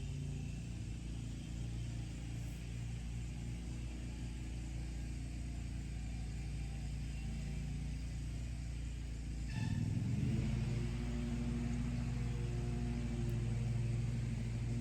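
A steady low hum with several held pitches, shifting pitch and growing a little louder about ten seconds in.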